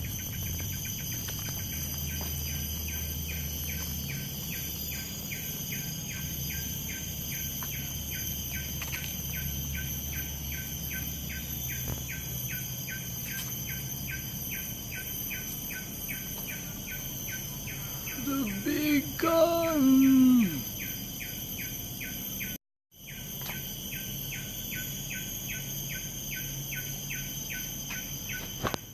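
Forest insects droning steadily at a high pitch, with a rhythmic chirping of about three pulses a second. About 18 seconds in, a bird gives a loud, harsh, gliding call lasting about two seconds.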